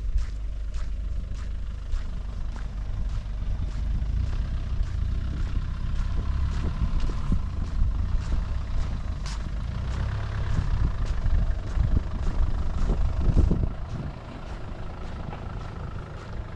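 A large vehicle's engine rumbling close by, loudest about thirteen seconds in and then dropping away, with footsteps at a steady walking pace.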